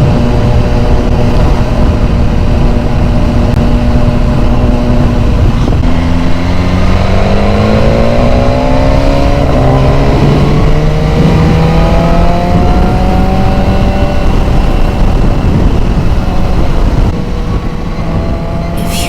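BMW S1000R motorcycle's inline-four engine under way, with wind rushing on the microphone. The engine holds a steady note, then about six seconds in the revs drop and climb smoothly for several seconds as the bike accelerates, before levelling off.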